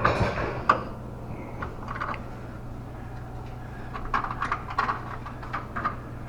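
Irregular light clicks and clinks of metal tools and parts being handled during work on a car's front suspension, in clusters near the start and again toward the end, over a steady low hum.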